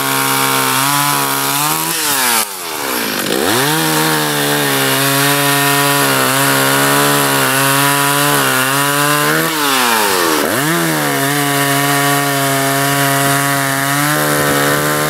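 Gasoline chainsaw running at high revs while cutting up a fallen tree limb. Its engine speed drops and climbs back up twice, about two seconds in and again about nine and a half seconds in.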